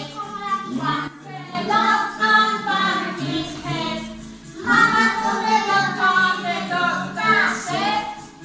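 Voices singing a song in phrases over steady backing music.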